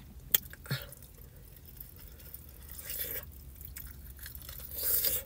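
Close-up mouth sounds of someone eating a chicken wing: wet chewing and lip smacks, with a couple of sharp clicks near the start and two short louder smacking swells, one in the middle and one near the end.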